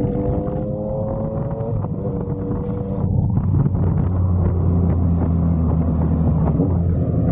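Yamaha MT-09's inline-three engine through an SC Project aftermarket exhaust, running under way with a low steady drone that gets louder about three seconds in.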